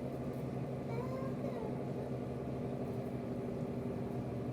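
A steady low mechanical hum made of several even tones, like an idling engine or a running motor, with a faint short falling whine about a second in.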